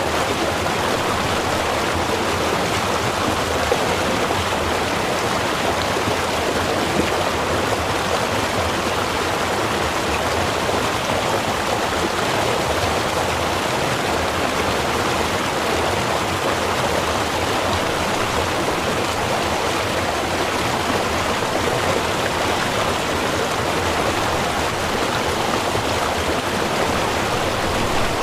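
A small stream running steadily, water rushing and burbling over rocks.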